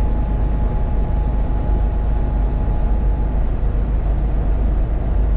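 Steady low rumble of a semi truck's engine and tyres inside the cab at highway speed, with a faint steady whine that stops about halfway through.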